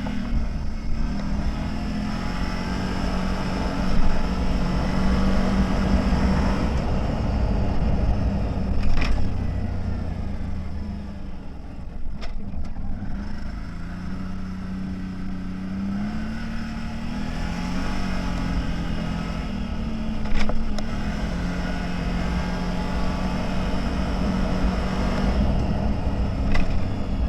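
CFMoto 1000 off-road vehicle's V-twin engine running while driving, its revs rising and falling, over a steady rush of wind and tyre noise. A few sharp knocks come through along the way.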